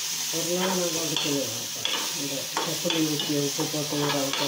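Bitter gourd and grated coconut frying in oil in a metal kadai, sizzling as a spatula stirs and scrapes through it, with a few sharp clicks of the spatula against the pan. A wavering pitched sound runs underneath.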